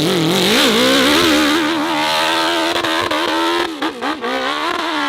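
Off-road motorcycle engine revving hard on a steep hill climb. The pitch wavers quickly up and down as the throttle is worked, and the revs drop briefly about four seconds in before holding steady and high.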